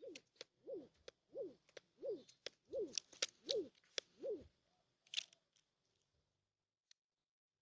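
A bird calling a steady series of low hooting notes, each falling in pitch, about one and a half a second, which stops about four and a half seconds in. Short high chirps or clicks come in among them.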